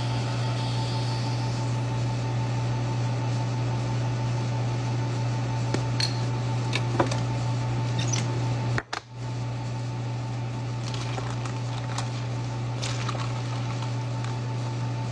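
A steady low machine hum with a few light clicks and taps over it; the sound cuts out briefly about nine seconds in, then the hum resumes.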